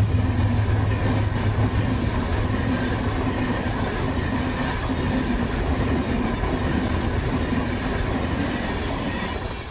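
A passenger train's coaches rolling past at speed close by: a steady loud rumble of steel wheels on the rails with some clickety-clack. It fades a little toward the end as the last cars draw away.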